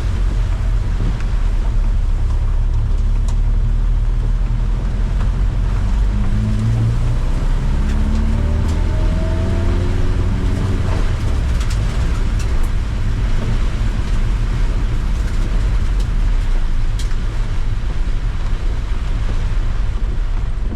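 Car engine and road noise heard from on board during a lap of a wet race circuit in heavy rain: a steady low drone under a hiss of spray. About six seconds in, the engine note climbs as the car accelerates, until around ten seconds in.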